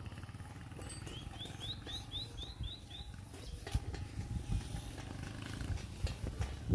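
A bird gives a quick series of about eight short, rising chirps, three to four a second, starting about a second in, over a steady low rumble.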